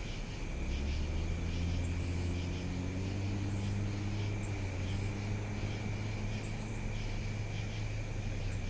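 A vehicle engine running close by with a deep steady hum. It comes in about half a second in, rises a little in pitch over the next few seconds and then holds steady.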